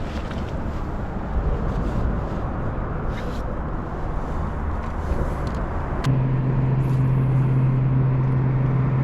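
Outdoor ambience on a fishing boat: a steady rushing noise with a low rumble. About six seconds in there is a sharp click, after which a steady low hum carries on.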